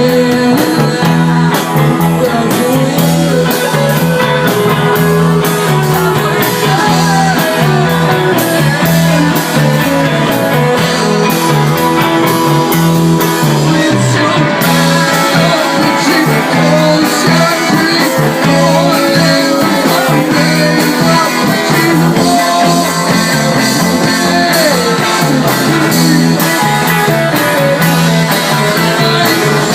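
Live rock band playing loudly: electric guitar, bass and drums, with a voice singing over them.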